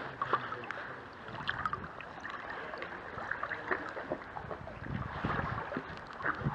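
Floodwater splashing and lapping around a small boat moving through it, with scattered irregular knocks and clicks.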